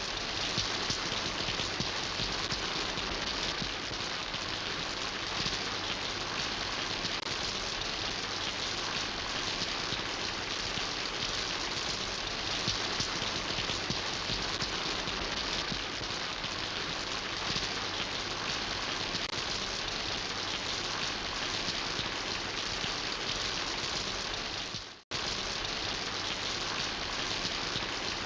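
Steady rain falling, an even hiss of many drops. Near the end it fades out to silence for a moment and then comes straight back.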